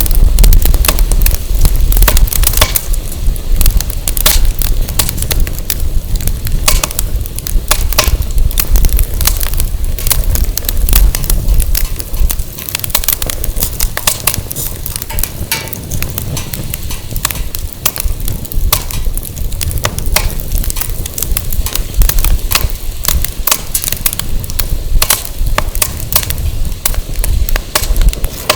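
Firewood burning in an open fire pit, crackling with many sharp, irregular snaps and pops, over a low rumble of wind on the microphone.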